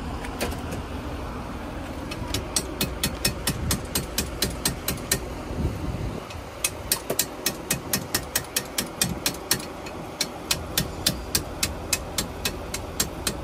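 A car engine idling, its rumble dropping away about six seconds in, with a rapid, regular clicking of about four clicks a second that carries on after the rumble stops.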